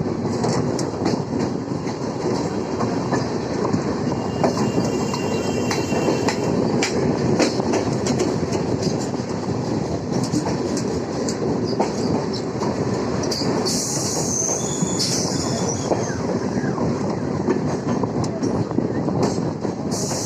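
Suburban electric local train running along the track: a steady rumble with scattered clicks of wheels over rail joints. A high-pitched wheel squeal sounds briefly about fourteen seconds in and again near the end.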